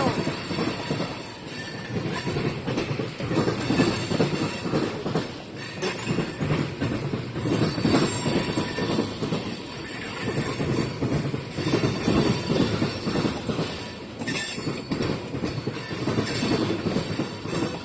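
A long freight train of oil tank cars rolling past, its wheels clacking over the rail joints with a steady rumble and rattle.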